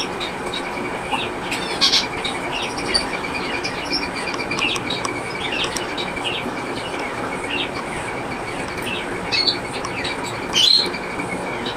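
Gouldian finches chirping repeatedly in short high calls, with the loudest chirp near the end, over a steady rushing background noise.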